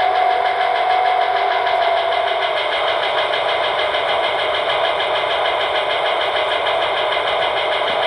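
Diesel engine sound from the DCC sound decoders of HO-scale model locomotives, led by a GE C30-7, running steadily through the models' small speakers. A steady tone near the start fades out about two seconds in.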